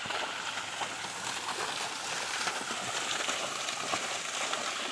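Steady hiss of running or falling water.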